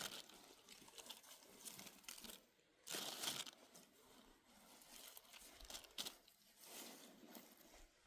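Faint rustling and crinkling from something being handled, with a louder rustle about three seconds in and a few light ticks.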